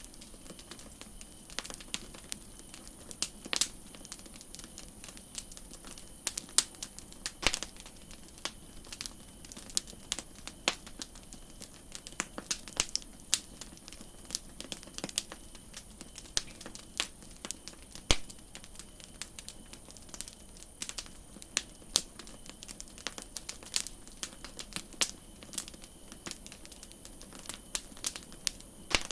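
Campfire crackling: irregular sharp pops and snaps, several a second, over a faint steady hiss.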